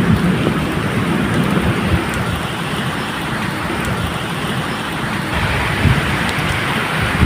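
Medium rain falling steadily, with low rumbles of thunder swelling at the start and again about six seconds in.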